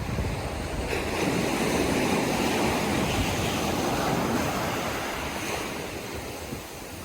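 Sea waves breaking on a beach: a wave's wash swells about a second in and slowly fades over several seconds. Wind rumbles on the microphone throughout.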